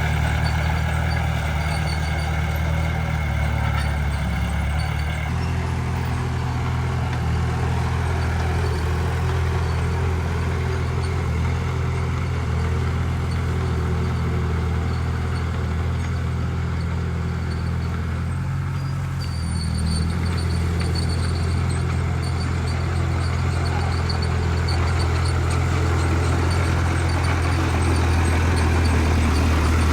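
Heavy diesel engine of earthmoving machinery running steadily with a low drone. The sound changes abruptly about five seconds in and again about twenty seconds in.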